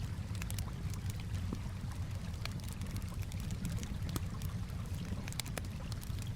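Campfire crackling, with irregular sharp pops and snaps, over a steady low wash of gently moving water.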